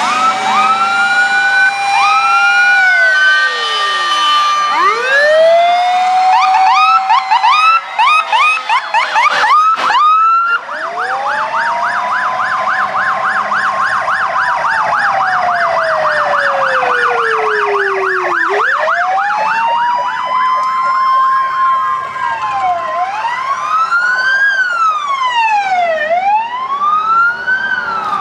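Several fire truck sirens sounding at once in a parade: wails that wind up and level off, one long slow wind-down, a fast yelp in the middle, and steady rising-and-falling wails near the end.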